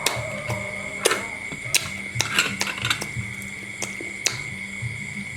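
Sharp clicks and clinks of a spoon against eggshell and dish while eating balut (fertilized duck eggs), scattered irregularly with a busier patch about halfway through.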